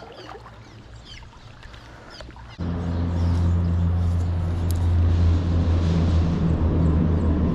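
A steady, low engine hum, most likely a motor vehicle, cuts in abruptly about two and a half seconds in and stays loud. Before it there are only a few faint clicks.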